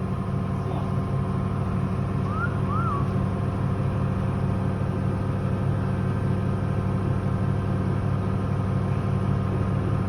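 Volvo XC90 engine running at a steady idle, a constant low hum.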